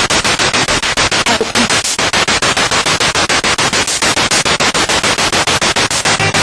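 Spirit box radio sweeping rapidly through stations: loud static chopped into short even bursts, about eight a second.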